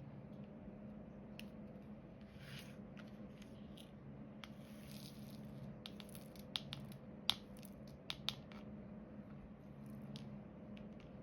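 Small sharp clicks and taps of resin diamond-painting drills being picked up with a drill pen and pressed onto the canvas, with a couple of soft rustles; the clicks come in a quick cluster past the middle, over a faint steady hum.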